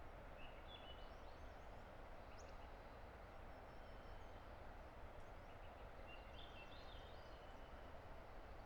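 Faint, steady rush of a distant river, with songbirds singing short high phrases about a second in and again about six seconds in.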